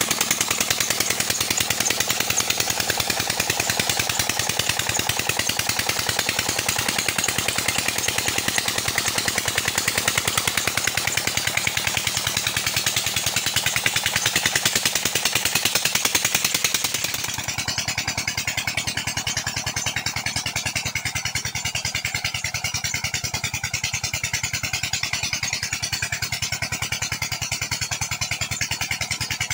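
Old 20 HP Petter diesel engine running steadily, with a fast, even beat of firing pulses. About two-thirds of the way through the sound turns duller and slightly quieter, but the engine keeps running at the same beat.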